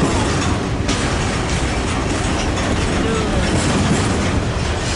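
A train rolling past: a steady, loud noise of steel wheels running on the rails, with a few faint short wheel squeals.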